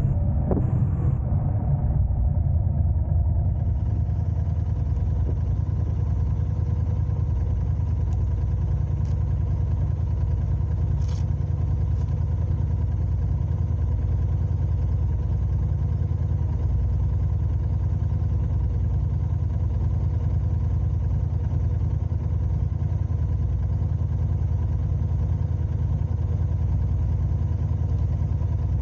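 A car's engine running with a steady low hum, its pitch shifting briefly in the first couple of seconds and then holding even.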